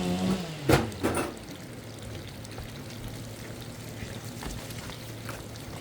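A chainsaw's engine drops in pitch and stops, then two sharp knocks about half a second apart, followed by a low steady hum.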